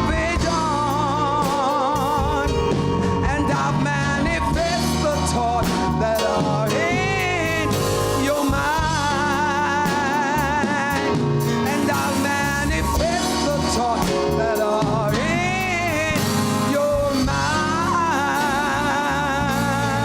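A gospel song performed live: a voice holding long, wavering notes with strong vibrato over a band accompaniment.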